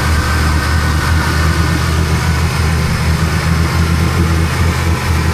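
An off-road 4x4's engine running steadily at low revs.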